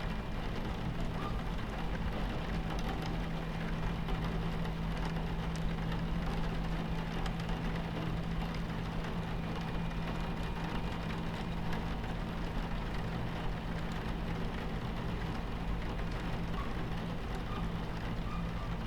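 Train running steadily: a constant low rumble with a steady hum in it, with rain on the carriage window.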